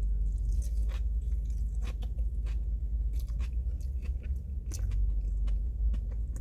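Close-up chewing of a mouthful of food, with irregular small crunching clicks, over a steady low hum.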